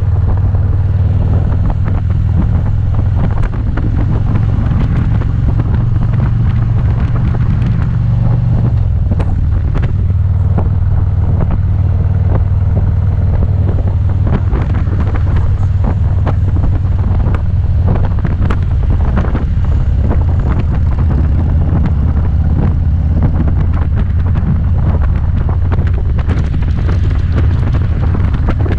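Motorcycle engine running steadily at road speed, with wind noise on the microphone. The engine note steps down slightly about eight seconds in.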